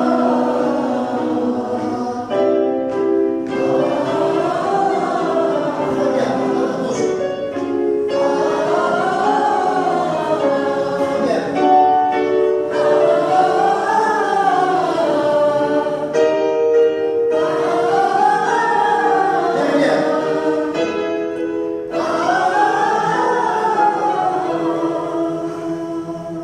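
A group of voices singing together. Held chords alternate with sliding phrases that rise and fall in pitch about every four to five seconds.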